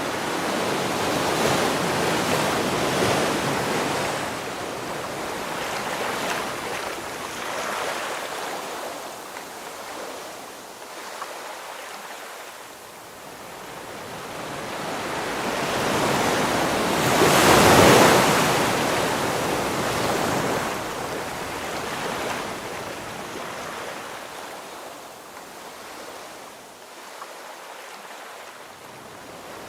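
Ocean waves breaking on the shore and washing back, rising and falling in slow surges: one large wave crashes about two-thirds of the way through, the loudest moment.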